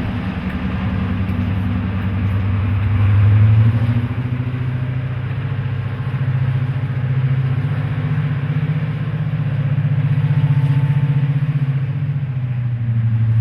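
Class 55 Deltic locomotive's Napier Deltic two-stroke diesel engines running steadily with a deep, even note, swelling louder about three and a half seconds in.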